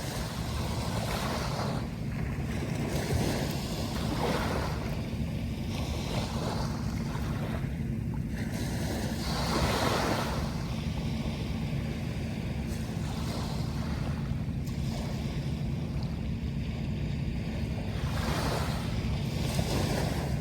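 Sea waves breaking and washing in, in surges every few seconds over a steady low rumble.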